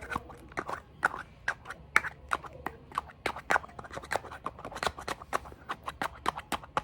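Fast, irregular tapping and clicking on small hard objects, several sharp taps a second.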